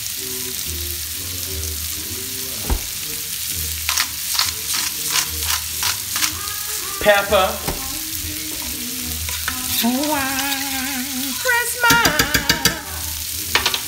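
Steady sizzle of green beans frying in a pan on the stovetop. Over it comes a run of sharp clicks about four seconds in. Near the end a spoon stirs thick creamy sauce in a stainless steel pot, knocking against the pot.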